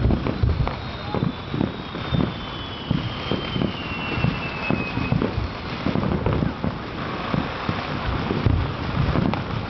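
Distant fireworks going off in irregular booms and pops, mixed with wind rumbling on the microphone. A faint high whistle falls slowly in pitch through the first half.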